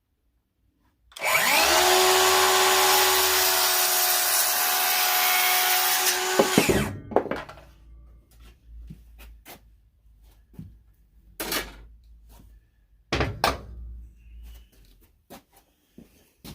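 A power saw spins up, runs steadily through a wooden board for about five seconds, then winds down. Several sharp knocks of wood being handled follow.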